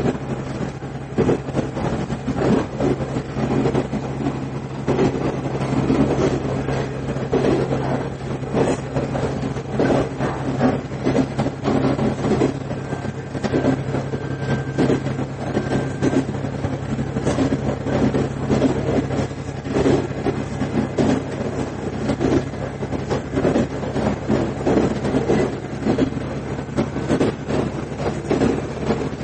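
Inside a KiHa 110 series diesel railcar running along the line: a steady low drone from the diesel engine, with irregular knocks and rattles from the wheels on the track.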